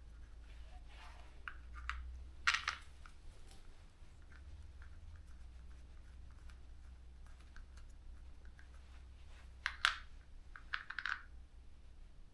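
A few sharp, light clicks and knocks, like small metal parts or tools being handled and set down: two about two and a half seconds in, one near ten seconds and a short cluster just after. A low steady hum runs underneath.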